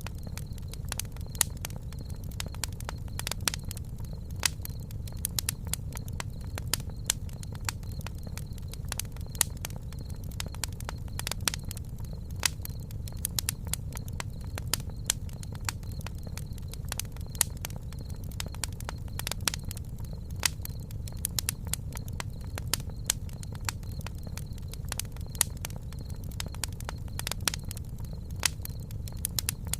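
Campfire burning, the wood crackling in many irregular sharp pops over a steady low rumble.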